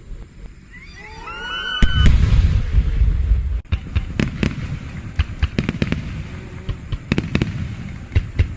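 Fireworks: several rising whistles climb about a second in, then a loud burst goes off about two seconds in with a deep rumble. A string of sharp, irregular pops and cracks follows.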